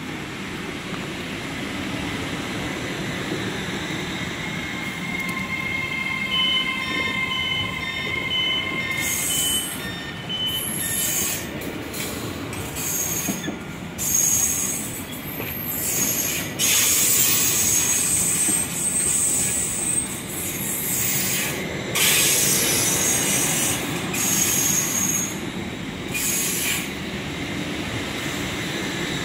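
A train moving at the station with a steady low rumble. From about six seconds in, high-pitched metallic squeals begin, coming and going in bursts and loudest in the second half.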